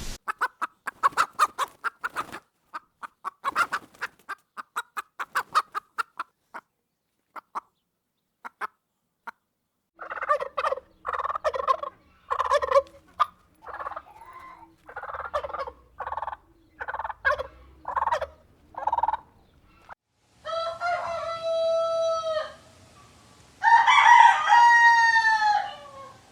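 Chickens clucking in runs of short calls, then a rooster crowing twice near the end.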